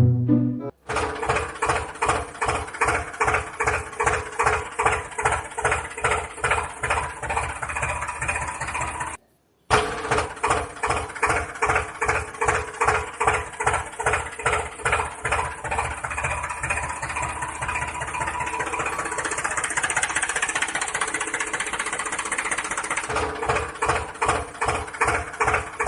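Small motor of a DIY miniature tractor running with a steady whine that pulses about twice a second. It cuts out briefly about nine seconds in, then runs on, growing harsher and higher for a few seconds past the middle.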